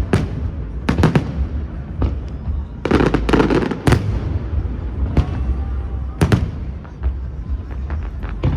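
Fireworks display: a string of sharp shell bursts about one every second or so, with a dense cluster of crackling reports around three seconds in, over a steady low rumble.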